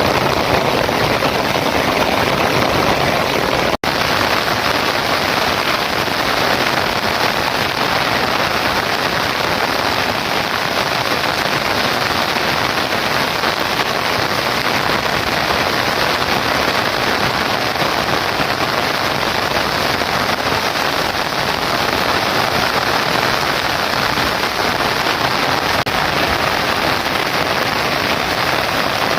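Heavy rain falling, a loud, steady hiss of downpour with one momentary break about four seconds in.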